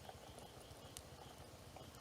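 Faint wood campfire crackling: a low flickering flame rumble with scattered small ticks and one sharper pop about halfway through.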